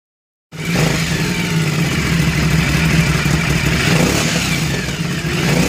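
Aprilia Dorsoduro's V-twin engine running steadily at idle through a modified exhaust, cutting in abruptly about half a second in.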